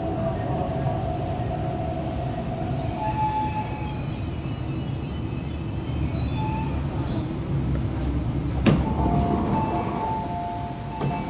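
MTR East Rail Line R-Train, a Hyundai Rotem electric multiple unit, slowing into a station, heard from inside the car by the doors: a steady rumble of the running gear with electric whine tones from the traction equipment that drop out and return. A sharp clack comes about nine seconds in as the train nears a stop.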